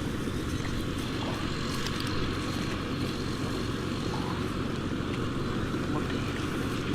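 A small engine running steadily at an even speed, a continuous low drone.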